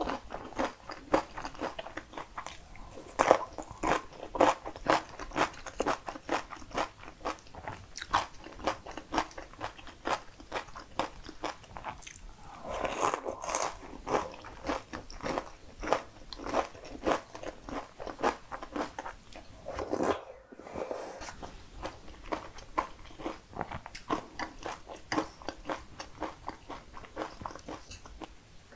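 Close-miked crunchy chewing of homemade cucumber pickles: a steady run of crisp crunches, about three a second, with a brief pause about twenty seconds in.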